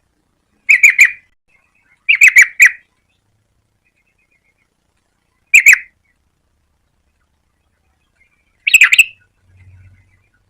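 Yellow-vented bulbul calling in four short bursts, each a quick run of a few chattering notes, with pauses of a second or more between them.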